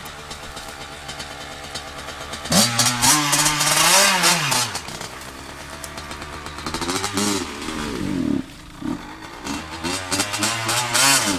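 Dirt bike engine idling and being revved: one big rise and fall about two and a half seconds in, then several shorter blips of the throttle in the second half. The engine is not yet warmed up.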